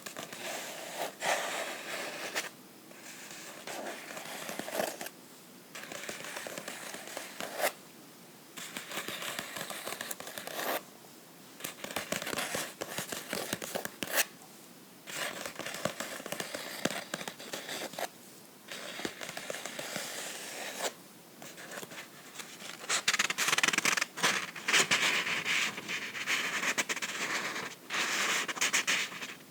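Fingernails scratching and rubbing across a book's cover and pages in bursts of a few seconds with short pauses between them, louder and hissier near the end.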